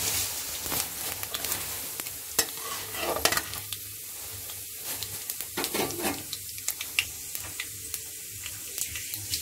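Mustard seeds, chana dal and urad dal frying in hot oil in a kadai: a steady sizzle with scattered crackles, while a spatula stirs and scrapes them through the pan. The clicks are thickest in the first six seconds or so and thin out toward the end.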